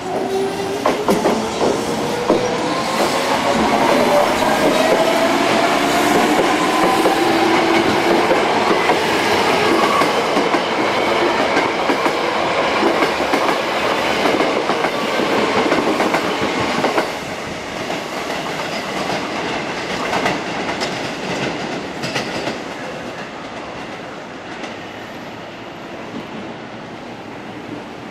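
Hankyu electric train pulling away from the platform. The traction-motor whine rises in pitch over the first several seconds as the train accelerates, over the clatter of wheels on the rails. The noise drops about two-thirds of the way through and fades toward the end as the train moves off.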